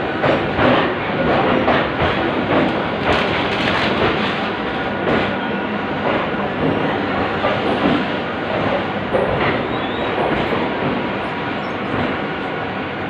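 Train running on the rails, its wheels clattering, with many sharp knocks through the steady rumble.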